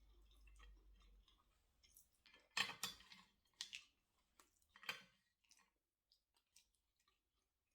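A few light clicks and taps from small objects being handled, the loudest about two and a half seconds in and again near five seconds, in near silence.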